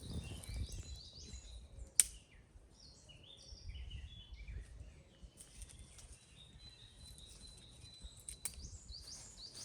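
Small birds chirping in short, quick notes over a low outdoor rumble, with one sharp click about two seconds in and a fainter one near the end.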